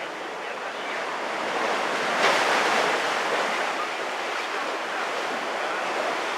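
Sea waves surging and washing, a steady rushing with one louder surge about two seconds in.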